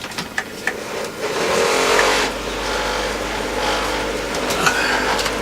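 DeWalt cordless drill/driver running steadily, driving out screws, after a few sharp clicks in the first second.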